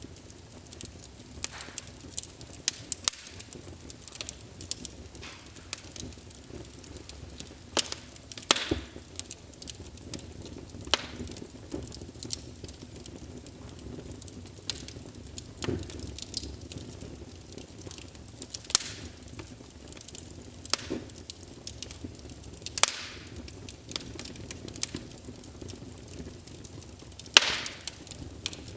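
Wood fire burning in a fireplace: a low steady rumble with irregular crackles and sharp pops, the loudest pops about 3, 8.5, 19, 23 and 27 seconds in.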